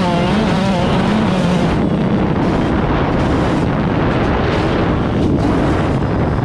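An off-road vehicle's engine running while riding, with wind noise on the microphone. The engine's pitch wavers during the first second or two.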